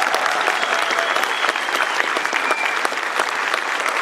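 Large audience applauding steadily, a dense wash of many hands clapping, with a few faint whistles.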